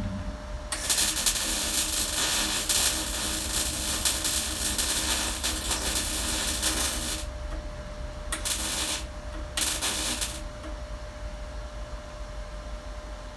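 MIG welder striking an arc and welding: a crackling hiss that runs for about six seconds and stops, then two short bursts of about a second each, over a steady hum.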